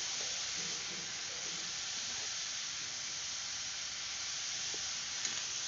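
Potatoes, onion and chopped banana flower sizzling steadily in hot oil in a steel kadai.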